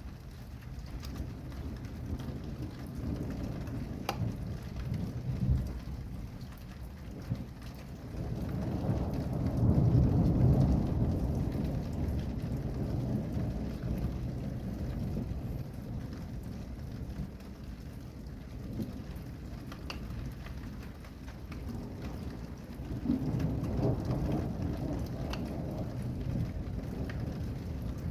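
Steady rain during a thunderstorm, with a long low roll of thunder swelling up about a third of the way in and a second, weaker roll near the end.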